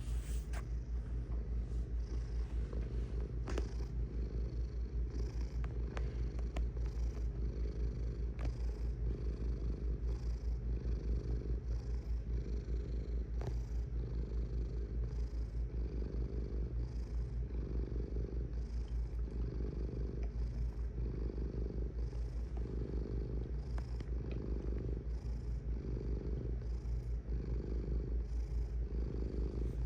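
Domestic cat purring steadily and close, the purr swelling and fading with each breath about once a second, with a few faint clicks.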